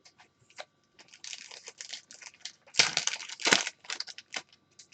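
Plastic packaging crinkling and rustling as a pack of trading cards is handled and the cards are sorted, with small clicks throughout and two louder crackles about three seconds in.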